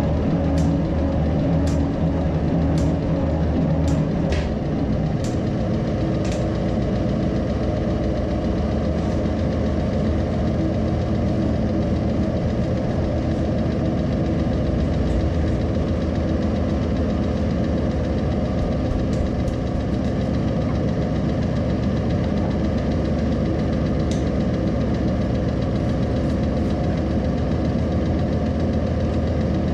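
A workshop machine running steadily, with a low motor hum and a fast, even knocking rattle; a few sharp clicks in the first few seconds.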